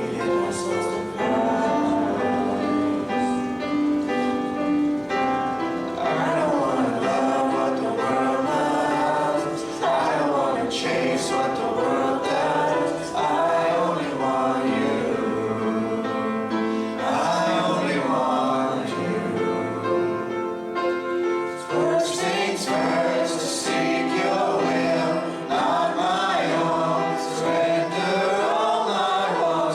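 Congregational worship music: a group of voices singing a hymn with instrumental accompaniment.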